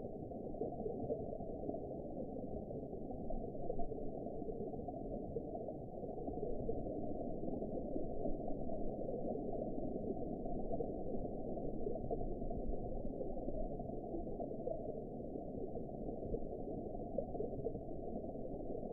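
Underwater ambience: a steady, muffled rumble and gurgle with all its sound below about 1 kHz, rising and falling slightly in loudness.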